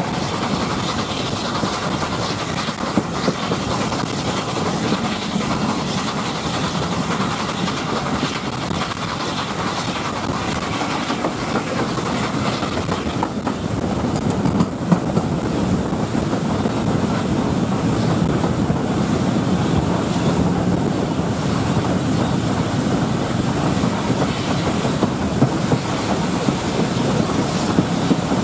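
Steam-hauled train behind LNER A4 Pacific 4464 Bittern running steadily along the line, heard from the first carriage behind the locomotive: a continuous rush of running noise with the wheels clicking over the rail joints.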